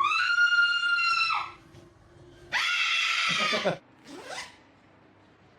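Parrot screeching: two long, loud squawks of about a second each, a second apart, then a shorter, fainter call.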